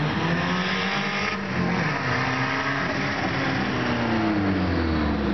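Car engine being revved hard, its pitch falling in the first couple of seconds and climbing again toward the end, over a steady hiss of road and tire noise.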